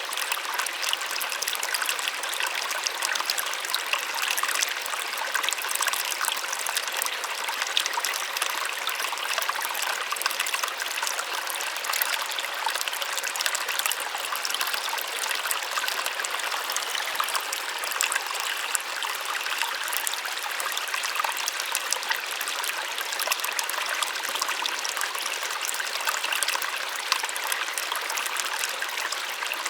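Small waterfall splashing steadily: a constant rush of falling water with fine crackling spatter and little low rumble.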